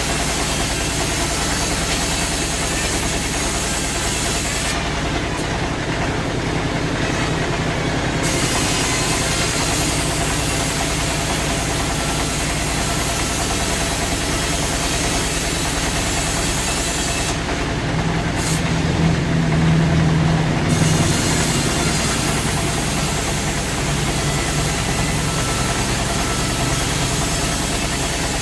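Sawmill engine running steadily with a low hum, briefly louder about two-thirds of the way through.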